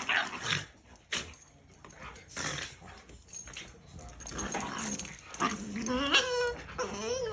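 Two dogs, a husky and a Shiba Inu, vocalising while they play-fight over a bed: short scattered noises at first, then a long pitched dog vocalisation near the end that glides up and wavers in pitch.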